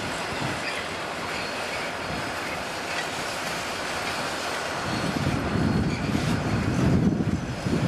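Conrail freight train rolling past, its cars' steel wheels running on the rails in a steady rolling noise. About five seconds in, a louder, fluttering low rumble comes in.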